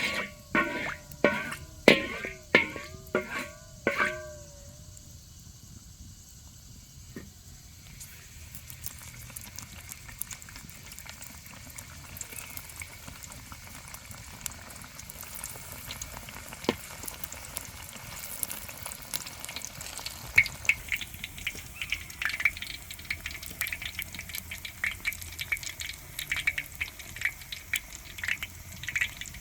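Food frying in a pan, a faint sizzle that builds and turns to dense crackling from about twenty seconds in. At the start, an animal gives a quick run of about eight short calls over four seconds.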